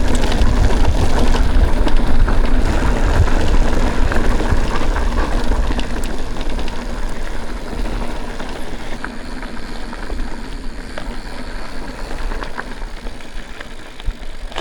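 Wind buffeting the microphone and tyres rolling over a rough dirt trail as a mountain bike is ridden, with scattered clicks and rattles from stones and the bike. The wind rumble is strongest in the first half and eases after about the middle.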